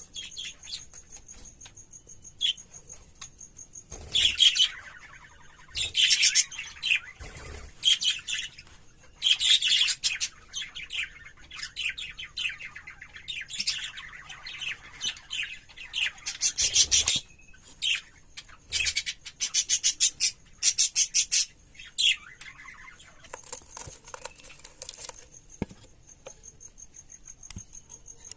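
Pet budgerigars chirping and chattering in loud bursts of quick, high notes, with short pauses between bouts.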